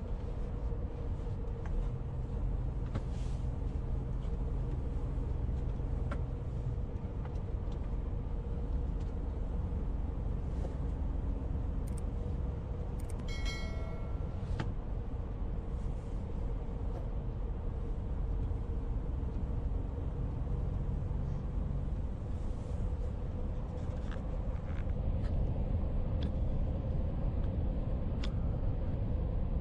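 Steady low rumble of a moving road vehicle, with a faint steady hum, a few light ticks and one brief high-pitched squeak about halfway through.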